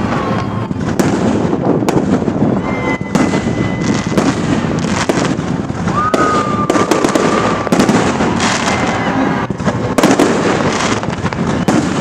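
Fireworks display: a dense run of bangs and crackling, with two high steady whistles each held for a few seconds, one starting about 3 s in and a lower one about 6 s in.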